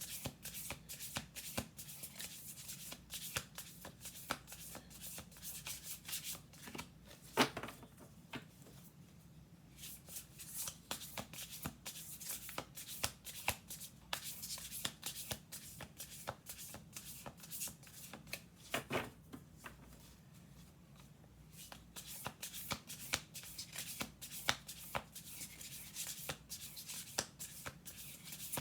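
An Urban Crow Oracle card deck being shuffled by hand: runs of quick riffling card edges with two short pauses, and a sharper knock of the deck about seven seconds in and again near nineteen seconds.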